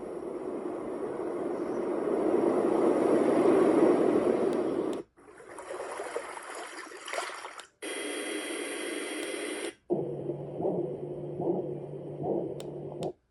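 Dream Egg white noise machine's speaker playing its built-in soothing sounds one after another, four in turn, each cut off abruptly as the next button is pressed. The first is a hiss that swells and falls away; the last has a low hum with soft pulses.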